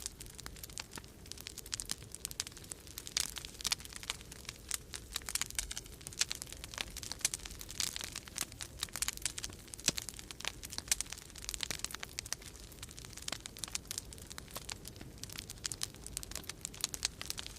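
Wood fire crackling in a fireplace: a dense, irregular stream of small snaps and pops. A low, steady rumble of storm wind runs underneath.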